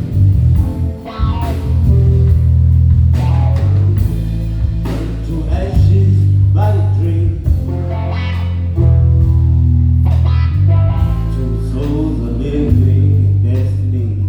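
Live band playing an instrumental passage: long held electric bass notes under regular drum hits, with a lead instrument line moving on top.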